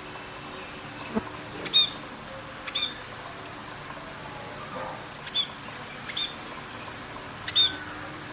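A parrot giving short, sharp chirping calls, five in all, a second or two apart, over a steady background hiss.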